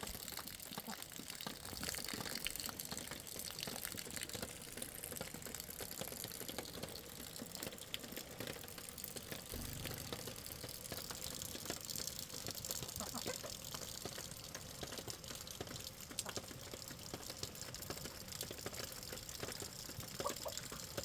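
Running water: a steady splashing and trickling noise with many small clicks and drips.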